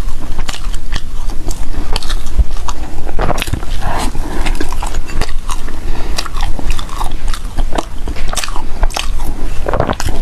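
Close-miked chewing and biting of food: a steady run of short crunchy clicks and wet mouth sounds, over a low steady hum.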